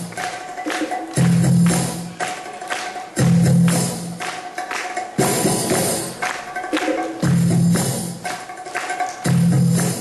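Tabla drumming: a fast run of sharp strokes, with a deep, ringing bass stroke about every two seconds.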